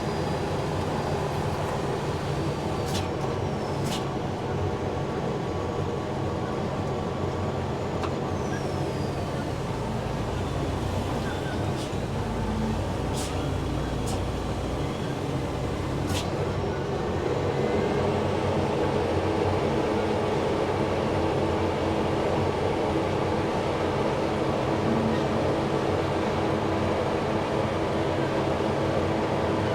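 Cummins diesel engine of a self-propelled crop sprayer running steadily under load, heard from inside the cab, with a few sharp clicks; it gets a little louder about two thirds of the way through.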